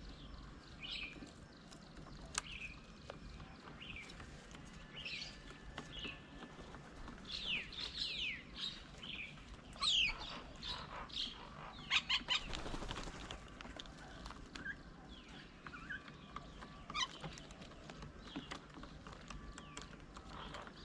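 Birds chirping and calling: many short sweeping chirps and whistles from several birds, overlapping and busiest in the middle.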